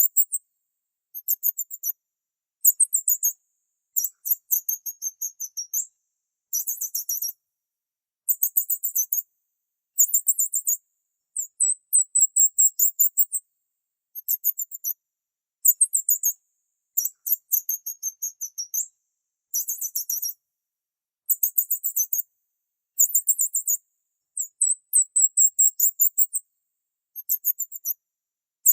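Bird chirping: short phrases of rapid, high-pitched chirps, each lasting about a second, repeating over and over with brief pauses between them.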